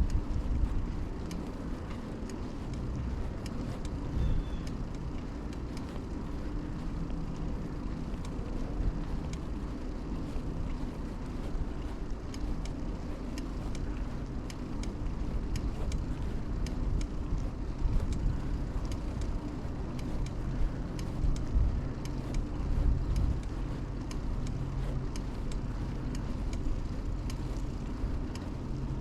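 Riding a mountain bike along a road: steady low rumble of tyres and wind on a chest-mounted camera, with motor traffic going by and faint ticks and rattles from the bike.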